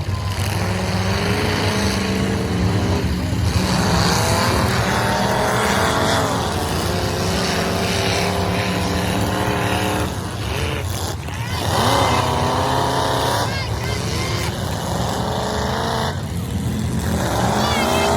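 Demolition derby trucks' engines revving hard, their pitch climbing again and again as they accelerate, over a steady low drone, with a few short knocks about ten seconds in.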